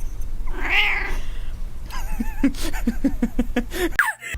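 A domestic cat meows once, then gives a quick run of short, rising-and-falling chirping calls, about five a second.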